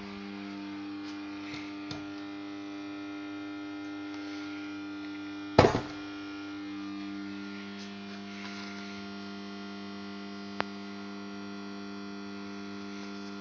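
Magnetic ballast (250 W two-winding choke) of a ZhKU-15 sodium street light humming steadily with a buzzy mains hum, the complaint of a noisy choke. A single loud knock sounds about halfway through, and a sharp click a few seconds later.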